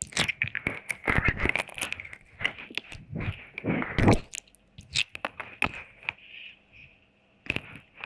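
Close-miked wet mouth sounds: tongue clicks, smacks and licking against the microphone, in irregular runs with a brief lull after about six seconds.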